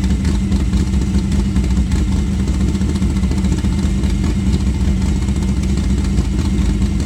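Studebaker drag-car engine on electronic fuel injection running at a steady fast idle while warming up, as if the choke were on.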